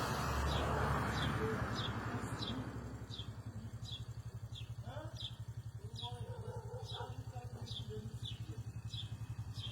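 A bird repeats a short, high, falling chirp over and over, a little more than once a second. A rushing noise fills the first few seconds, and a steady low hum runs underneath.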